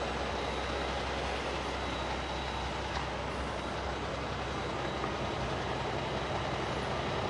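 Steady low rumble of vehicle engines with road noise, unchanging throughout.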